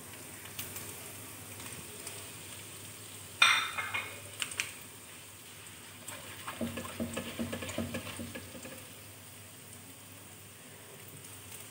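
Oil sizzling gently in a nonstick wok as dry ground spices are tipped in and fried with ginger-garlic paste, stirred with a spoon. A sharp ringing clink a few seconds in, then a spell of spoon stirring and scraping against the pan in the middle.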